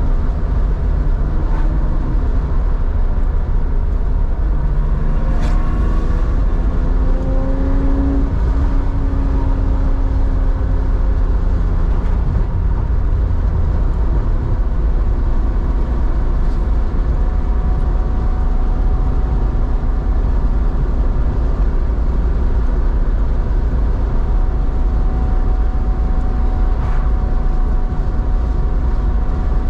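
Porsche 911's air-cooled 3.4-litre flat-six pulling through a Scart two-in-one-out muffler on the road. The engine note rises in pitch for a few seconds about five seconds in, then holds a steady exhaust drone at cruise.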